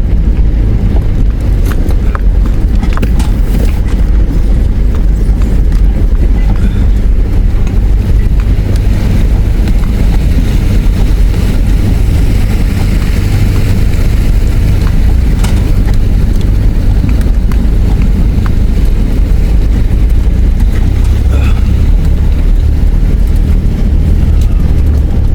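Four-wheel-drive vehicle crawling over a rough track in four-wheel-drive high range: a steady low engine and drivetrain rumble, with a few scattered knocks and rattles.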